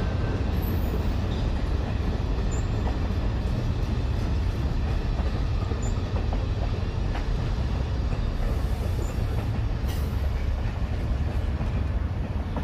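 Passenger train hauled by Milwaukee Road 261 rolling past on the rails: a steady low rumble of wheels on track, with a few faint clicks.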